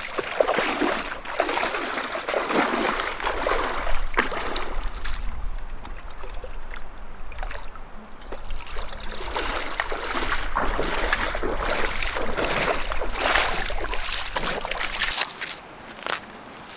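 Water splashing and sloshing in repeated swells.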